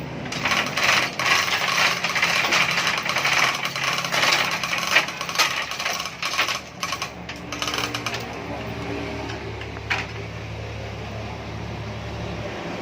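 Rapid metallic rattling and clattering with sharp knocks, as of workshop tools on metal. After about eight seconds it gives way to a steady low hum.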